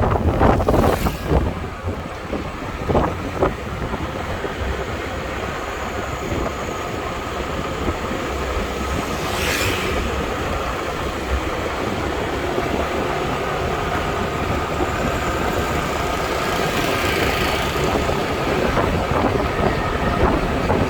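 A vehicle running steadily: a continuous rumble with faint steady tones and a few brief louder noises, one about ten seconds in.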